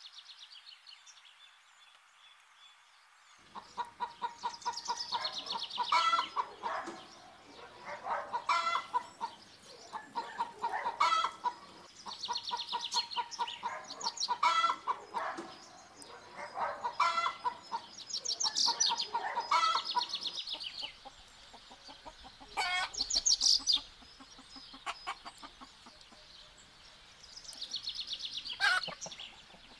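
A flock of hens clucking and squawking, many short calls overlapping in bursts every couple of seconds, starting about three seconds in after a faint background.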